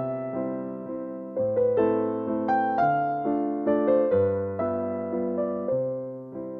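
Background music: a gentle piano melody over held chords, notes struck one after another and left to die away.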